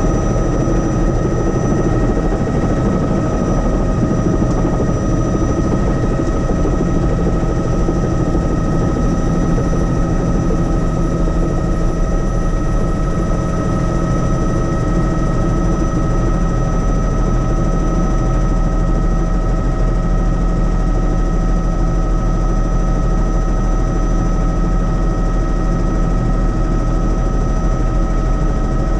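Helicopter running steadily, heard from inside the cabin: a continuous low drone with a steady high whine over it, unchanging throughout.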